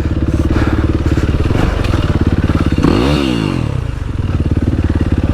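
Yamaha WR450F dirt bike's single-cylinder four-stroke engine running at low revs, with one quick rev up and back down about three seconds in.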